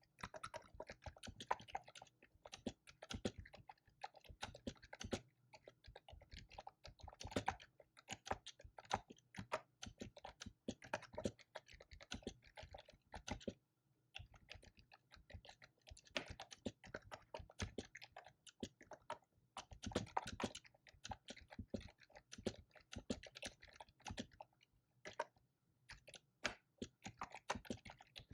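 Typing on a computer keyboard, the keys clicking in quick runs broken by brief pauses.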